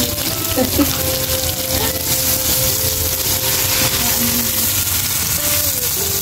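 Pork and vegetables sizzling in a hot wok as a spatula turns them, with soft background music.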